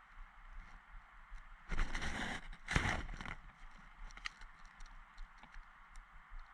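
Two brief bursts of rustling, scraping noise, the second a little louder, about a second apart near the start, with faint scattered ticks around them.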